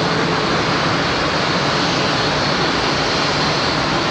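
Jet airliner engines running steadily at taxi power: an even, unchanging noise with a low hum.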